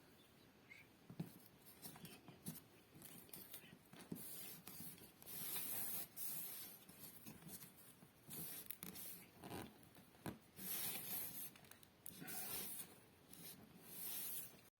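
Faint rubbing and rustling of a wooden board being handled, with small clicks and scrapes in irregular bursts, as the top is glued down onto a cardboard fireplace.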